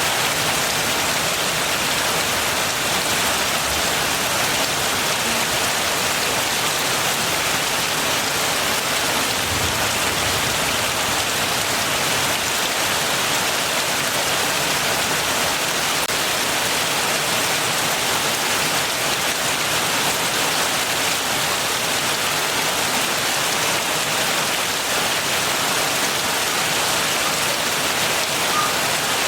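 Steady heavy rain falling and pattering on surfaces, an even, unbroken rush without thunder.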